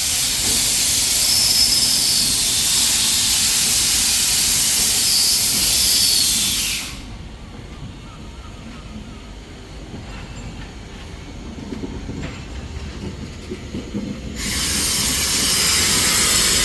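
Steam locomotive letting off steam in a loud, steady hiss. The hiss stops abruptly about seven seconds in, leaving a low rumble with faint knocks, and starts again just as abruptly about seven seconds later.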